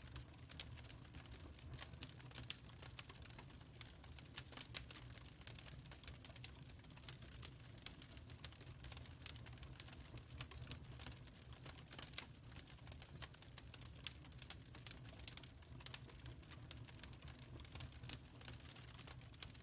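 Wood fire crackling in a firepit: irregular sharp pops and snaps, some louder than others, over a low steady rumble.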